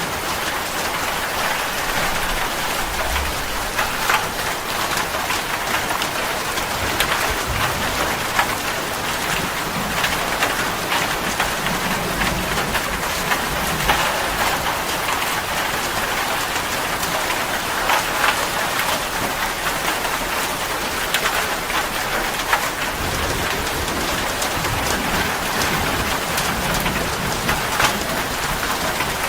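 Steady rain, dense and even, with the sharp ticks of individual drops hitting a hard surface close by.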